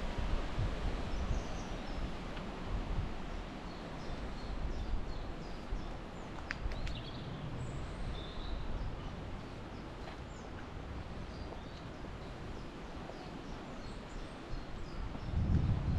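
Wind gusting through trees and buffeting the microphone with a low rumble, heavier at the start and again near the end, while small birds chirp and sing throughout.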